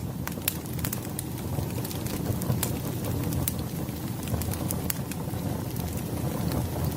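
Burning firewood crackling: a steady low rumble of flames with irregular sharp pops and snaps.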